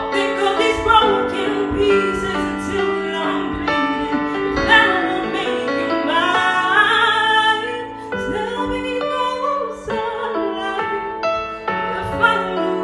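A woman singing long, bending notes over piano accompaniment.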